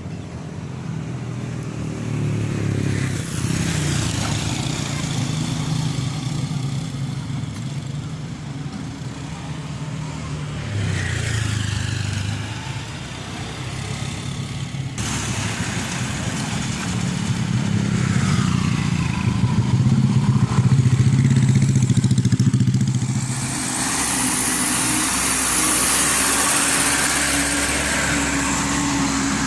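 Diesel truck engines running and revving, their pitch rising and falling as the trucks pass. A strong hiss joins them for the last several seconds.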